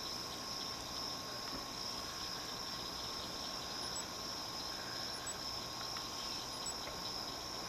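Steady, high-pitched chorus of crickets, with three faint, short, very high chirps in the second half.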